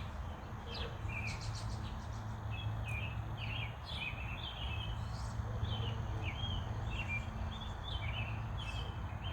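Birds chirping, many short calls one after another, over a steady low hum.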